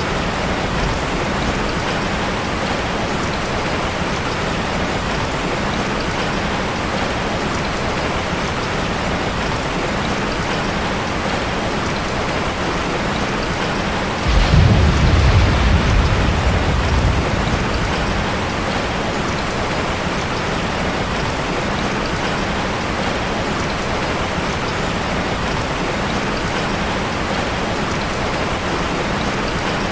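Heavy rain falling steadily as an even hiss. About halfway through, a sudden low rumble of thunder rises over it and fades away within a few seconds.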